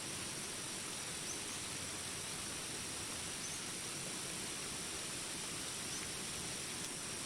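Steady rain hiss in a jungle with a constant high insect drone, and a few faint short chirps spaced a couple of seconds apart.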